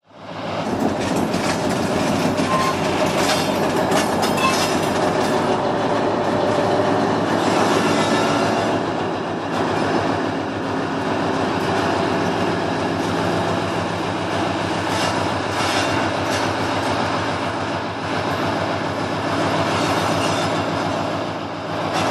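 Class 60 diesel locomotive running steadily as it moves slowly with a long train of box wagons. The wagon wheels clack over the rail joints, and the wheels give a few short squeals in the first few seconds.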